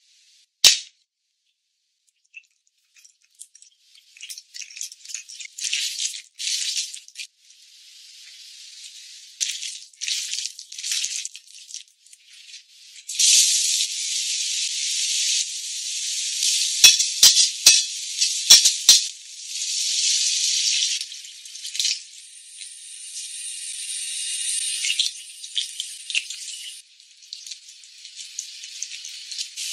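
Food frying in hot oil in a wok, a dense sizzle that starts in short bursts and becomes steady around the middle, with a few sharp clicks of metal utensils against the pan. It opens with a single sharp knock.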